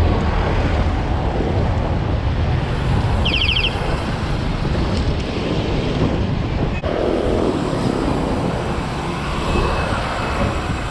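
Wind rushing over the microphone and tyre noise from a mountain bike rolling along, with a short high trill a little over three seconds in and a sharp click about seven seconds in.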